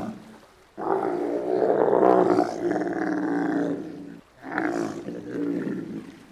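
A large animal's long, low, pitched call lasting about three seconds, followed by a shorter, weaker call about a second later.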